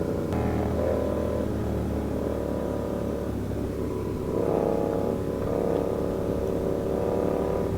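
Sportbike engines running at a motorcycle meet, with a brief rise in revs about four and a half seconds in.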